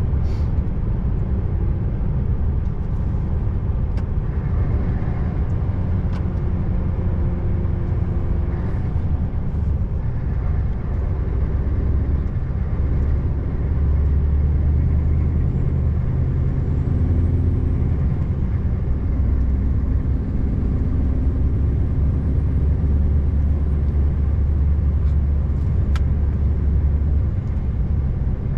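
Scania R590's V8 diesel engine pulling under load up a steep 10% grade, a steady deep rumble. A single short click sounds near the end.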